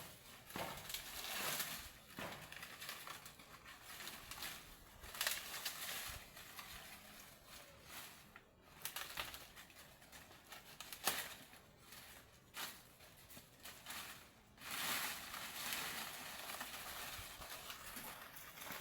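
Irregular rustling and crunching with scattered knocks, as poles and dry plant material are handled during hut building; a denser stretch of rustling comes near the end.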